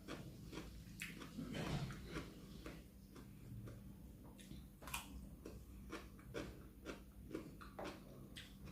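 Close-up eating sounds: chewing with soft mouth noises and irregular small clicks of cutlery against a plate.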